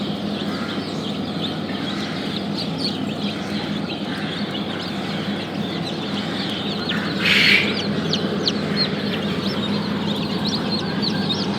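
Newly hatched chicks peeping in an incubator: many short, high cheeps, coming thicker in the second half, over a steady hum and hiss. A brief louder rustling burst comes about seven seconds in.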